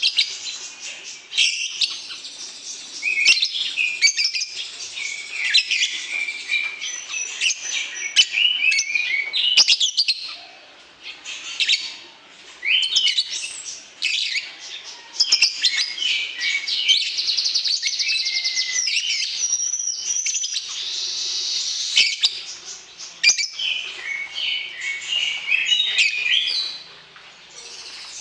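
Lovebird singing: fast, chattering runs of sharp chirps and trills, with one long unbroken trill about two-thirds of the way through.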